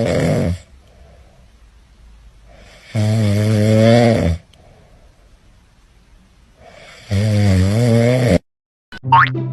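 Loud snoring: long, raspy snores repeating about every four seconds, each lasting over a second.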